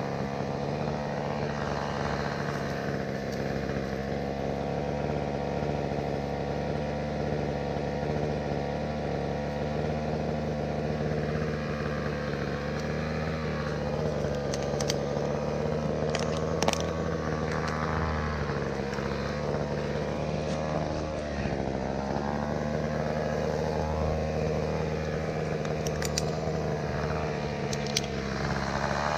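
An engine idling steadily at an even speed, with a few sharp clicks about halfway through and again near the end.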